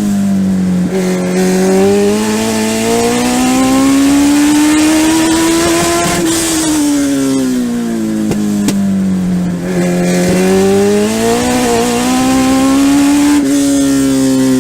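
Legend race car's Yamaha four-cylinder motorcycle engine, heard onboard at racing speed. Its pitch drops off, climbs steadily for several seconds, drops again and climbs again, as the driver lifts for the turns and powers down the straights of a short oval.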